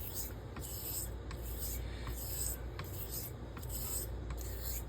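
Steel straight razor honed on a wet, slurried Pyrenees 1200-grit stone: steady back-and-forth swishing strokes, about one every 0.7 seconds, with light clicks between strokes as the bevel is set.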